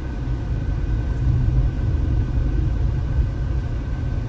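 A car driving up a mountain road, heard from inside the cabin: a steady low rumble of engine and tyres.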